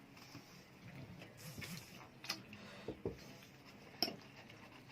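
Light clinks and taps of cutlery and dishes at a dinner table: three or four short, sharp ticks spread over a few seconds, faint overall.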